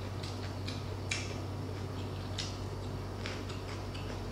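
Close-miked chewing of food: scattered faint, irregular crunchy clicks over a steady low hum.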